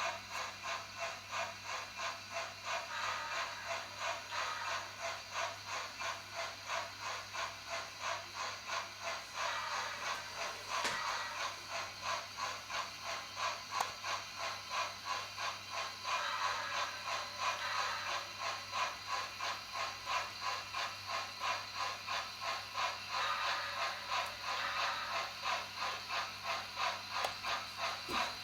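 Sound decoder of an HO-scale Shay geared steam locomotive model playing a steady rhythmic exhaust chuff, about two beats a second, through the model's small speaker, with a faint steady hum underneath.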